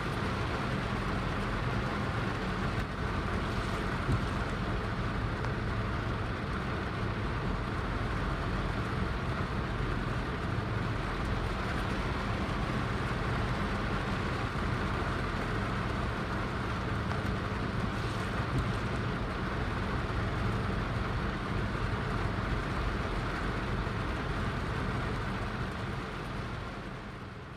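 Heavy rain falling steadily, fading out near the end.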